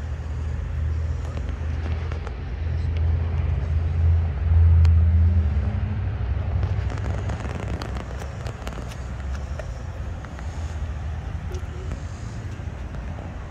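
Car engine idling with a deep, steady low rumble; the revs rise briefly about four to five seconds in, then settle back to idle, with a few sharp ticks or pops after.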